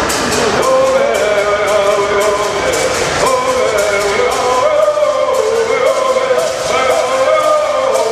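Southern California bird singing: a group of men sing a bird song in unison. Their gourd rattles shake in a steady beat of about three strokes a second.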